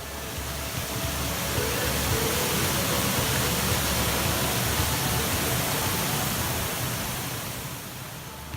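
Waterfall: a steady rush of falling water that swells in over the first couple of seconds and fades down near the end.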